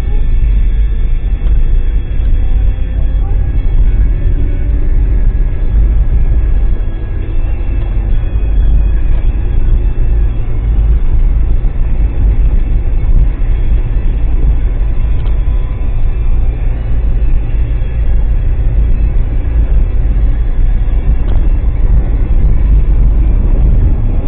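Vehicle on the move: a loud, steady low rumble with a faint engine hum that rises and falls slightly in pitch.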